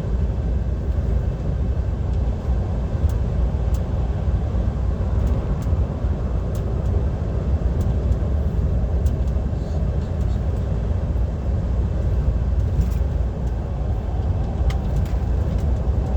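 Steady low engine and road rumble inside the cab of a DAF XF 530 lorry cruising on the motorway, with a few faint clicks over it.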